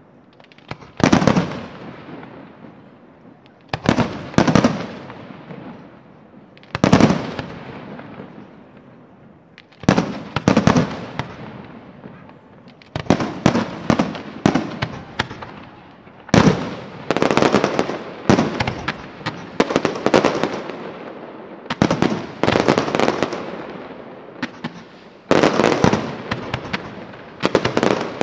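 Aerial firework shells bursting one after another, a loud bang every one to three seconds, each trailing off in a long echo, with quick clusters of crackling bursts in places.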